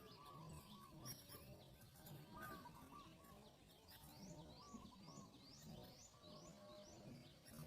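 Faint bird chirps, short and high, repeating about twice a second in the second half, over low background noise.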